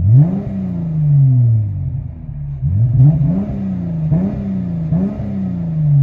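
Dodge Challenger's 3.6L V6 revved through an exhaust with Dynomax Race Bullets in place of the resonators and mufflers, heard from inside the cabin: one rev that falls slowly back over about two seconds, then a run of quicker throttle blips from about halfway on. The exhaust note is clean, with no rasp.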